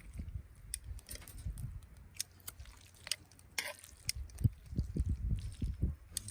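A person chewing and biting food close to the microphone, with irregular soft mouth thuds and small clicks.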